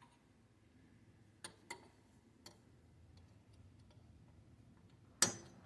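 Faint clicks and light taps of hand tools on metal, then one sharp metal-on-metal strike near the end: a hammer hitting a punch held against a stuck U-joint pin.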